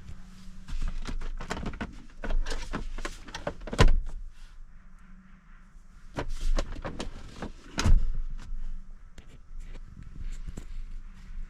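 Car doors being opened and shut: a run of latch clicks and handling knocks with two solid thunks about four seconds apart.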